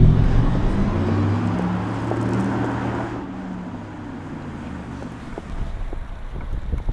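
Audi R8 e-tron electric sports car driving with its artificial sound: a low, layered hum fades away over the first three seconds. Quieter road noise with a few light clicks follows, building again near the end.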